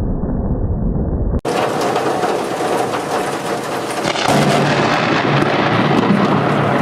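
Thunder rumbling low. About a second and a half in, it cuts abruptly to steady heavy rain, with a faint low hum joining partway through.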